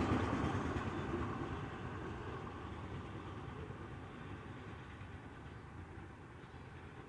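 Rumble of a train on the Trans Australian Railway fading steadily away into the distance just after it has passed.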